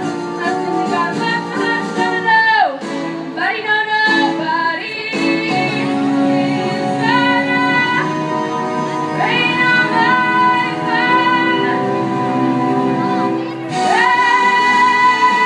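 Middle school show choir singing with musical accompaniment: young voices holding notes and sliding between pitches.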